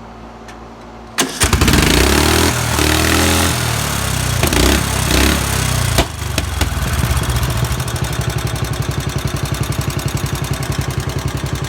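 Murray lawn mower's small engine starting about a second in and running loud, with a sharp crack about six seconds in, then settling into a steady, rapidly pulsing run that the owner calls not happy.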